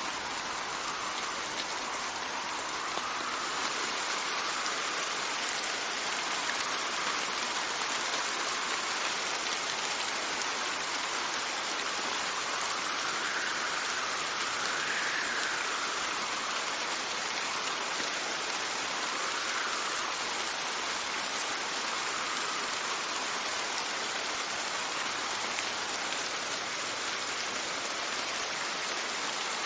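Steady rain with wind. A soft whistle of wind rises and falls every few seconds, strongest about halfway through.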